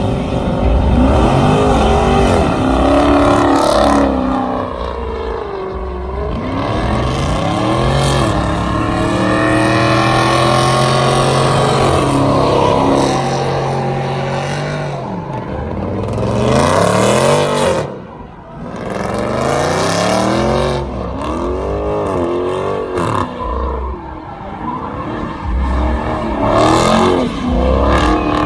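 Car engines revving hard and repeatedly, pitch climbing and falling again and again, with a stretch of several seconds held at steady high revs in the middle.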